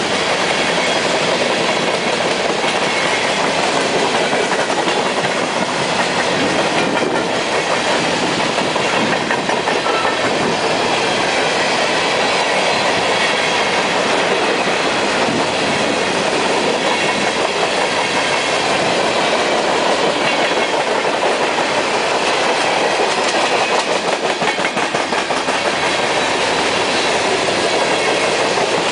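Covered hopper cars of a Union Pacific unit train rolling past close by: a steady rumble and clatter of steel wheels on the rails, with a running series of wheel clicks.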